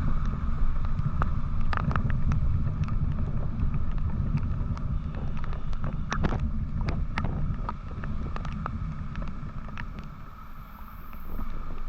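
Motorcycle riding on the road: heavy wind buffeting the microphone over a low road and engine rumble, with a faint steady whine and scattered sharp ticks. The rumble eases briefly near the end.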